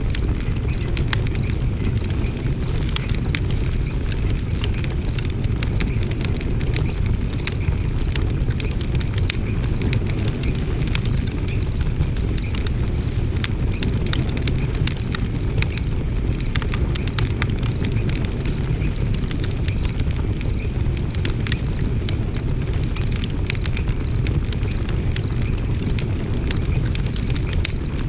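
Wood fire burning in a fire stand: a steady low rumble with frequent sharp crackles and pops.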